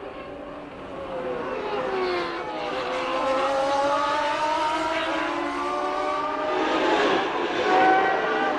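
Formula One cars' naturally aspirated racing engines at speed, several engine notes overlapping and rising and falling in pitch. The sound grows louder about a second in.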